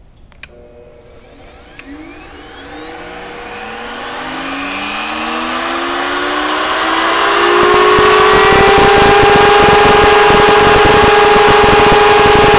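Two electric routers mounted in tandem switched on with a click and spinning up, their whine rising in pitch for several seconds and then settling into a loud, steady high-pitched running sound.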